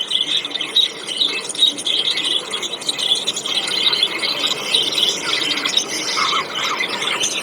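A flock of small birds chirping and chattering together, many overlapping high calls.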